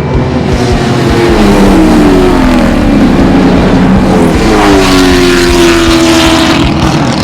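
V8 muscle-car racing engines revving hard. The engine pitch drops in steps over the first few seconds, then rises again about halfway through and holds high as the car accelerates.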